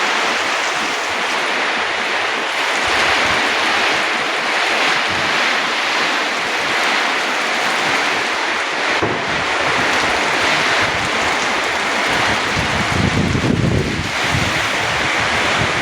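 Rainstorm with heavy rain and strong wind: a steady loud hiss of rain, with gusts buffeting the microphone in low rumbles, strongest about 12 to 14 seconds in.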